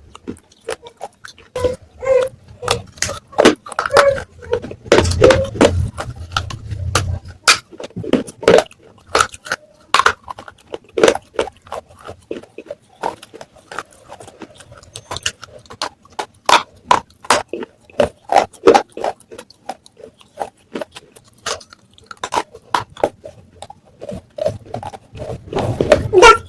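Close-miked crunching of baked clay matka pieces being bitten and chewed, a fast irregular run of sharp crunches and snaps, several a second, with a few short pauses.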